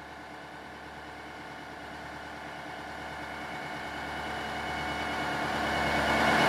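Amtrak Southwest Chief's diesel locomotives running, growing steadily louder as the train approaches.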